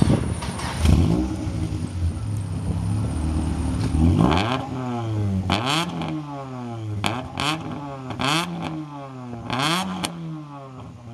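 Ford Escort RS2000 running with a repeating noise: from about four seconds in, a sound that glides down and up in pitch comes round about every second and a half over a steady low engine hum, each cycle with a short hiss.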